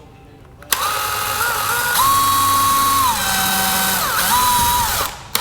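Power drill motor running, starting under a second in, its pitch stepping up and down several times as the trigger is eased. It stops about five seconds in and starts again briefly at the very end.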